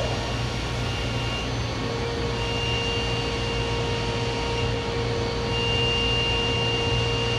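Machining-center spindle (DMG Mori DMC 1035V, CAT 40) spinning at high speed, around 10,000 RPM, giving a steady hum with a faint high-pitched tone that comes and goes. The spindle was recently replaced, and the seller takes its sound for a spindle in excellent condition.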